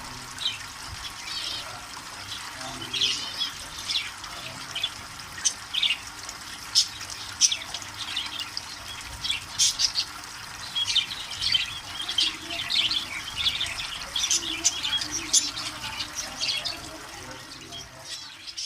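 Pet birds chirping and squawking again and again over the steady splashing of running water from a homemade bird shower fed by a cooler pump.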